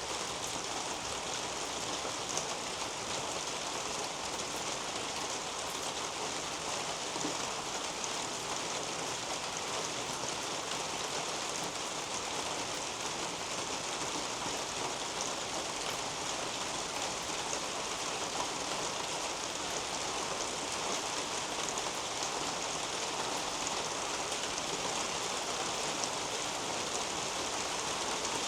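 Steady rain falling on garden leaves and foliage: an even, dense hiss with many small drop ticks.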